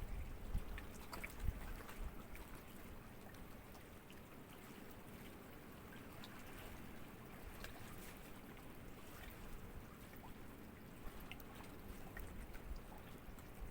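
Small sea ripples lapping gently: a faint, steady wash of water with small splashes and trickles. Wind buffets the microphone with low rumbles in the first second or two.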